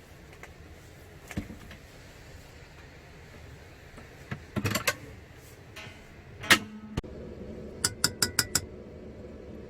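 Small hard objects being handled: scattered knocks and clicks, one sharp clack with a brief ring about two-thirds of the way in, then five quick clicks in a row near the end.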